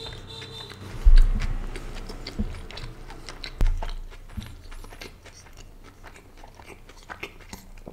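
Close-miked chewing of a mouthful of paneer tikka wrap, with small wet mouth clicks throughout and a few low thumps about one, two and a half, and three and a half seconds in.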